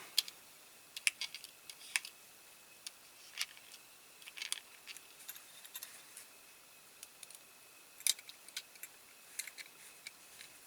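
Scattered small clicks and taps of a diecast toy car's parts being handled and fitted together: the plastic interior being worked back into the metal body, at an irregular pace.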